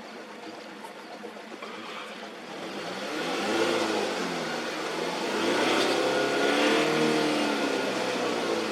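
Mazda BT-50 pickup's engine revving, rising and falling in pitch twice and getting louder from a few seconds in, as the stuck truck strains to drive free of a riverbed.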